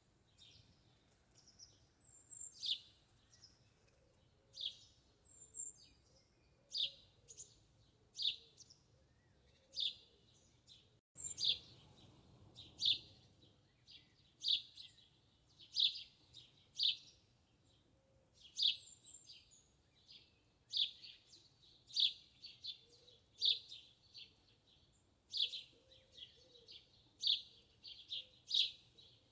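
Small birds chirping: short, high chirps repeating every second or two, coming more often in the second half.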